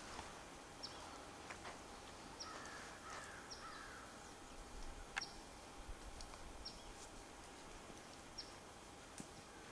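Faint outdoor ambience with short, high, falling bird chirps repeating every second or so, a few lower calls, and a few soft clicks.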